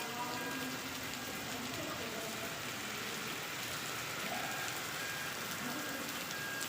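Rain mixed with hail falling steadily, an even hiss with a few faint scattered ticks.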